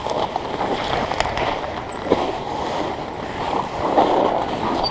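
River rapids rushing steadily over rock, swelling briefly near the end.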